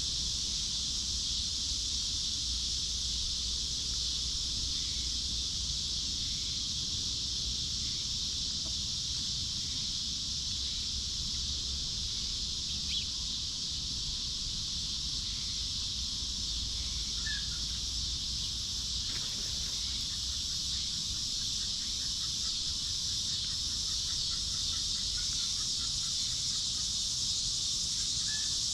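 Steady high-pitched insect chorus buzzing without a break, with a few faint, short calls from foraging hens, including a soft run of repeated notes in the second half.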